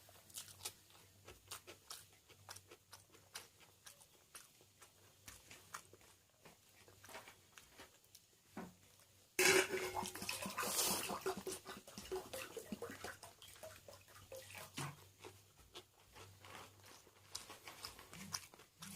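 Close-miked chewing and wet mouth clicks of a person eating egg biryani with fish fry and salad by hand. About halfway through, a louder burst of crunching comes in suddenly and lasts about three seconds.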